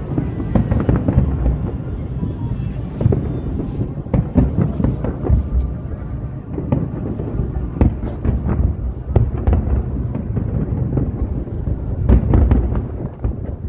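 Fireworks display: a rapid, continuous string of bangs and crackles over a deep booming rumble, densest about four seconds in and again near the end.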